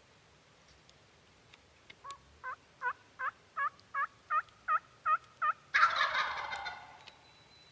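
A turkey yelping, about ten evenly spaced notes that grow louder, then a wild turkey gobbler gobbling, the loudest sound, about two-thirds of the way in.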